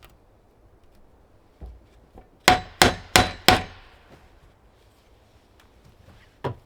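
Four quick, sharp strikes about a third of a second apart, each with a short metallic ring. Two fainter knocks come before them and one more knock comes near the end.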